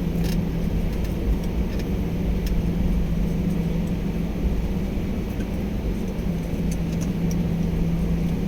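Airliner cabin noise at take-off: the engines running steadily with a constant low hum over a deep rumble, heard from inside the passenger cabin.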